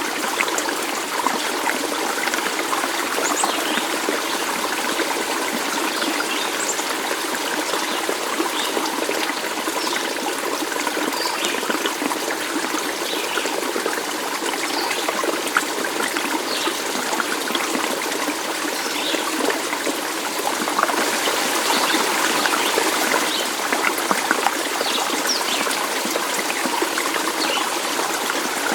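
A stream of water trickling and flowing steadily, a little louder for a few seconds about three-quarters of the way through.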